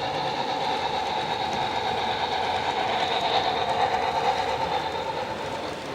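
Model train running on a show layout: a steady whine from its small motor and gears with wheels clicking on the track, growing louder in the middle and fading near the end as it passes.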